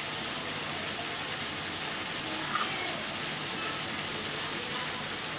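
Chicken pieces frying in oil in a kadai, a steady sizzle.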